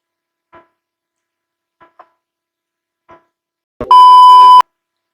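A few faint soft ticks, then a loud, steady electronic beep on one pitch lasting just under a second, starting and stopping abruptly.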